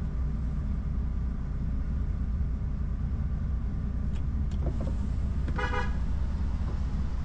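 Heavy truck's diesel engine running steadily at low speed, with a short vehicle horn toot of about half a second a little over five seconds in.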